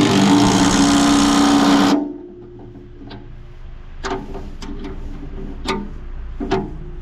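A loud, rapid mechanical rattle like a power tool running on the bolts of a snow pusher's skid shoes, cutting off abruptly about two seconds in. Then a low hum with about six sharp metallic clanks of tools and steel parts as the shoes are adjusted.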